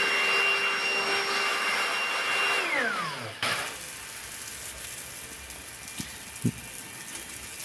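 Pressure washer's electric motor and pump running with a steady high whine, then switched off about two and a half seconds in, the pitch falling as it spins down. A quieter steady hiss follows, with a click and a short thump near the end.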